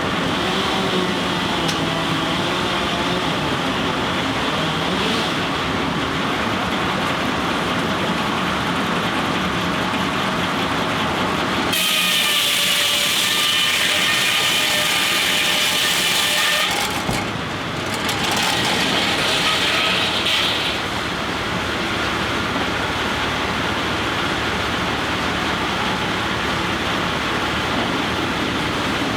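Steam-powered sawmill machinery running steadily. A louder, high-pitched whine comes in twice, first for about five seconds from about twelve seconds in, then briefly near twenty seconds.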